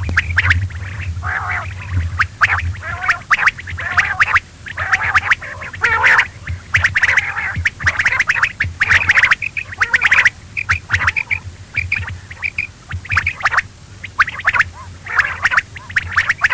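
Quail calling: quick, raspy, chattering calls repeated over and over, with a steady low hum underneath.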